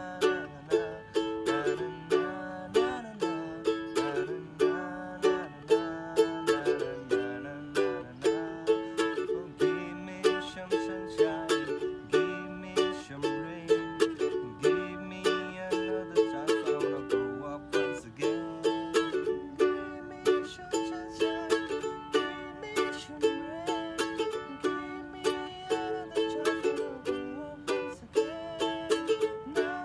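Music played on a plucked string instrument: a quick, even run of picked notes with sharp attacks, over a lower melody line that rises and falls.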